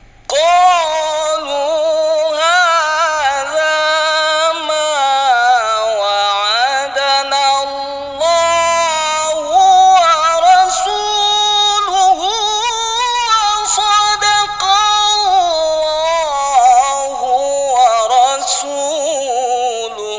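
A qari's voice chanting Quran recitation (tilawah) in one long, high, ornamented melodic phrase. The pitch glides and wavers in rapid trills through the phrase. It starts abruptly just after the beginning and fades out at the very end.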